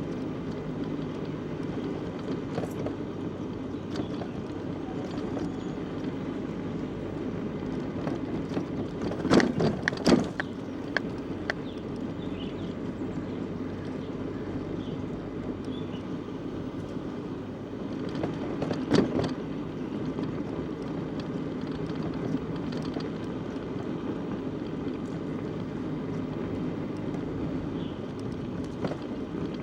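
Bicycle riding along a village road: a steady rolling noise from the tyres and bike. A few sharp knocks and rattles come about nine to ten seconds in and again near nineteen seconds.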